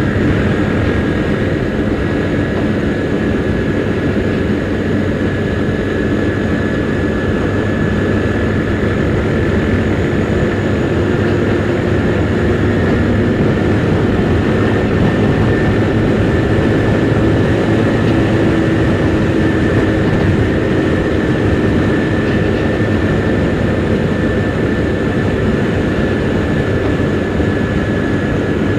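Kymco Super 8 scooter engine running steadily under way, mixed with a steady rush of riding wind. It is heard from a camera inside the rider's helmet.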